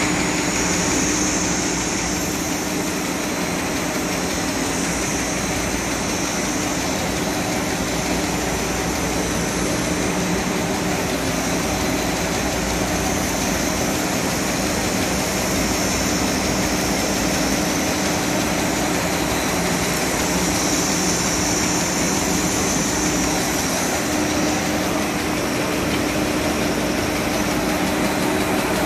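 Paper slitting and sheeting machine running steadily: a continuous mechanical drone with a steady hum and a high hiss.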